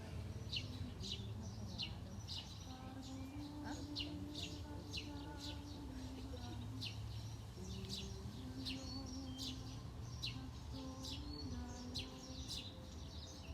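Birds chirping outdoors: short, sharp high calls repeating about twice a second over a steady low background rumble.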